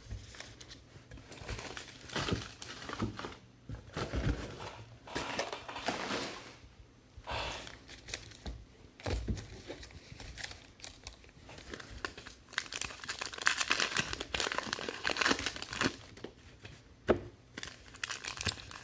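Trading card pack wrappers crinkling and tearing as packs are ripped open by hand, irregular rustling that grows busier and louder in the second half.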